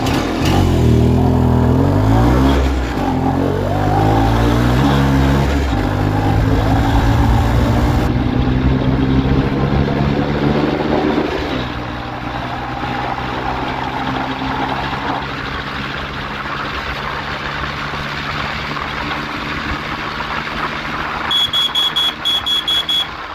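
IZh Planeta 5 single-cylinder two-stroke motorcycle engine accelerating hard: it revs up and drops back several times as it shifts up through the gears, runs steady at top speed, and eases off to a lower steady note about halfway through. A string of five short high beeps sounds near the end.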